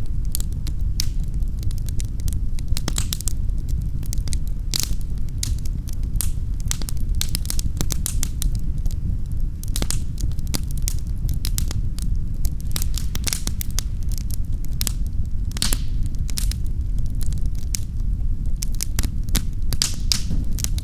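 Wood fire crackling in a fireplace: a steady low rumble of flame with frequent irregular sharp pops and snaps.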